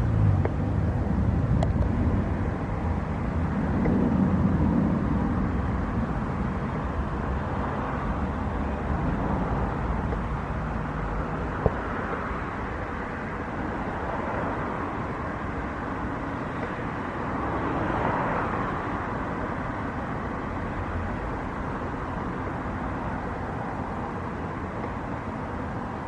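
Jet airliner engines, a steady rumble that is loudest at first and slowly fades, with a brief swell again about two-thirds of the way through.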